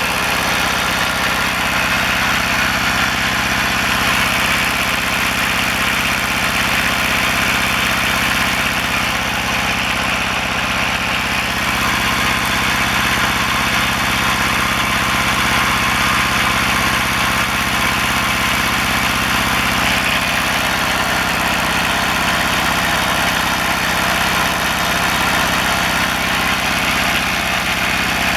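Kubota L175 tractor's Z750 two-cylinder diesel engine running steadily, on its first start in two or three years.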